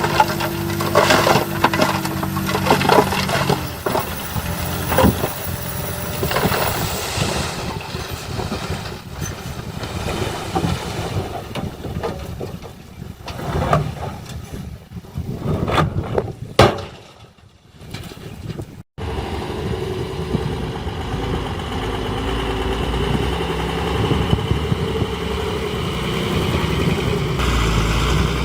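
Diesel engines of heavy earthmoving machinery running, with a rapid series of clanks and knocks through the first few seconds. The sound fades and breaks off about two-thirds through, then a steady engine drone takes over.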